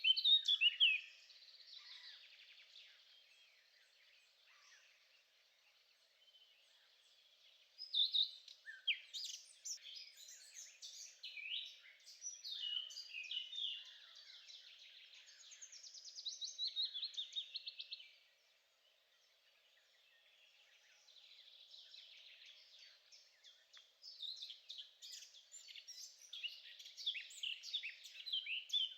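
Songbirds singing: runs of fast, high chirps and trills in bursts, with quieter gaps between, the strongest stretches starting about eight seconds in and again a few seconds before the end.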